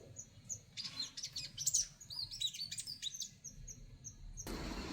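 Birds chirping: a short high note repeated about twice a second, with a flurry of varied, sweeping chirps in the middle. Near the end the birdsong cuts off suddenly into a steady rushing hiss.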